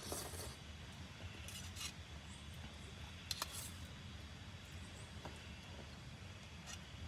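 A steady low hum with a few light clicks and clinks: one at the start, a few near the middle and one near the end.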